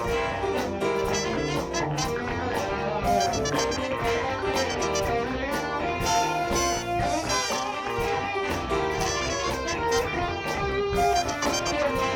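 Live soul-funk band playing an instrumental break without vocals, an electric guitar prominent over the drums and horns.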